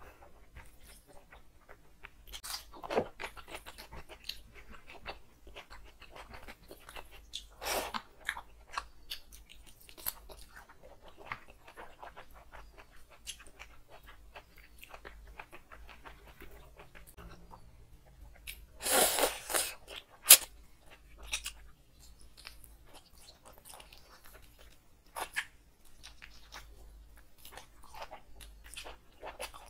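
Close-miked chewing of chicken feet and mutton rib pieces on the bone, with many small wet clicks and crunches and a few louder bursts about 3, 8 and 19 seconds in.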